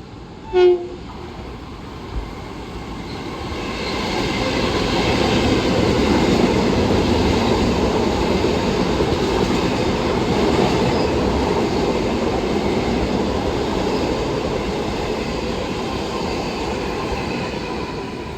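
A brief, loud pitched toot under a second in, then a Long Island Rail Road train running through the station. The rumble and clatter of the wheels builds, peaks for several seconds and fades, with faint high wheel squeal over it.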